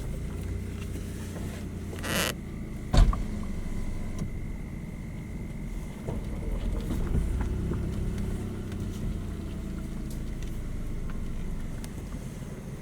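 Car engine running steadily at low revs, with a short hiss about two seconds in and a sharp knock about three seconds in.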